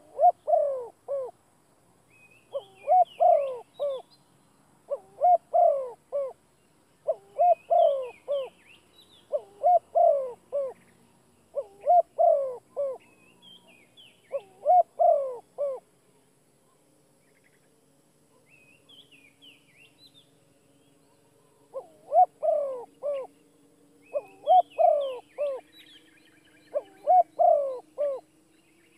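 A bird calling a low phrase of three or four notes, repeated about every two seconds, with a pause of a few seconds past the middle. Fainter, higher chirps from other birds come through between the phrases.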